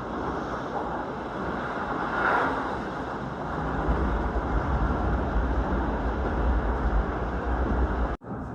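JR Kawagoe Line electric train running between stations: steady rumble and hiss of wheels on rail. A short swell of hiss comes about two seconds in, the low rumble grows stronger about halfway through, and the sound cuts out for an instant near the end.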